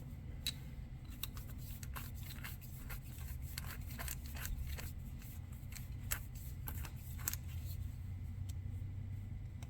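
Short, irregular scraping and clicking as a freshly drilled hole in an RC car's suspension A-arm is deburred by hand, with a steady low hum underneath.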